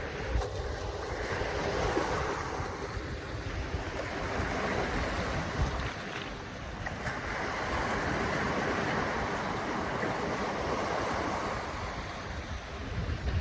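River water rushing, with wind gusting against the microphone; the rush swells and eases a couple of times.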